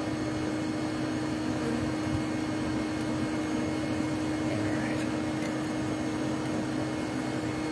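Steady motor hum: a constant low tone over an even bed of noise, unchanging throughout.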